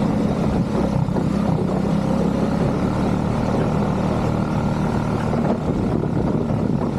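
ATV engine running steadily under way.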